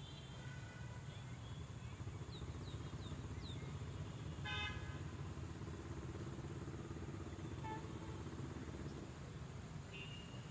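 Faint steady rumble of a passing motor vehicle, with one short horn toot about halfway through and a few quick high chirps just before it.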